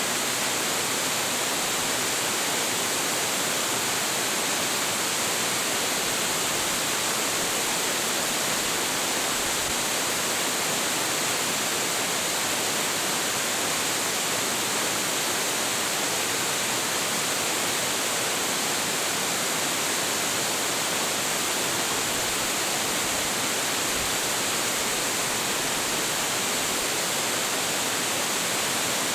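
Hiji Falls, a 25.7 m waterfall with heavy flow, pouring steadily: a dense, even rush of falling water with a bright hiss and little deep rumble.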